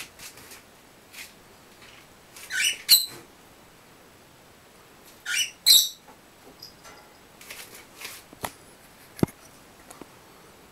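Pet gray birds giving short, shrill calls in two pairs, about three seconds in and again about five and a half seconds in. Two light knocks follow near the end.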